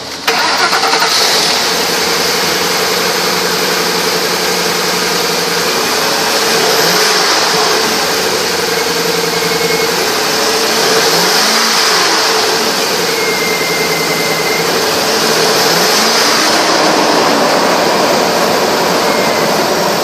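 2005 Ford Explorer engine cranking and catching just under a second in, then running steadily, its pitch rising and falling a few times with light revs.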